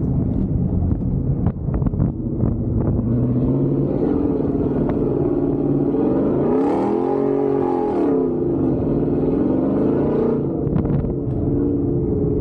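Gen 1 Ford Raptor's V8 engine running as the truck is driven on a dirt course. There are a few sharp knocks in the first few seconds, and about halfway through the engine revs up and then falls back.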